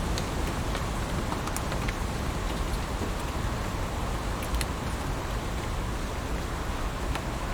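Heavy rain falling steadily as a dense even hiss, with scattered sharp drop ticks at irregular moments.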